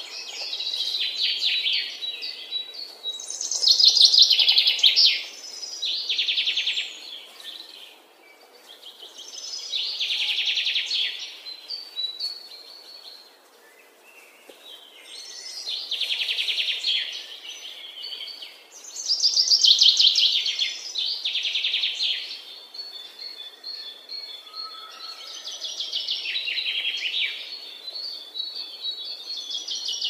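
Songbird singing: high-pitched phrases of rapid trills, each a second or two long, repeated every few seconds with short pauses between.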